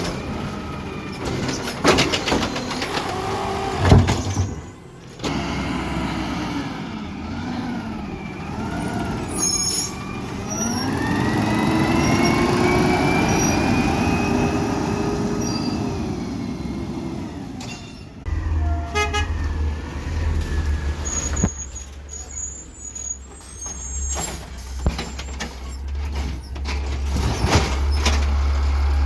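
Garbage truck engine revving up for several seconds, holding, then dropping back to a low rumbling idle. Loud knocks and clatter come near the start.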